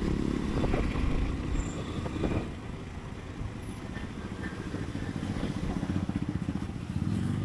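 Motorcycle engine running on the move, heard from the bike itself. It eases off about two and a half seconds in, then picks up again toward the end.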